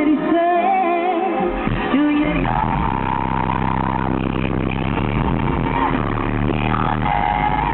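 A pop song with singing, played loud through a car audio system with a Hifonics amplifier. Heavy bass comes in about a second and a half in.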